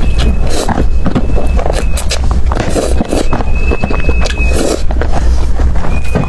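Close-miked eating sounds: chewing and mouth noises with many short, sharp clicks over a steady low rumble.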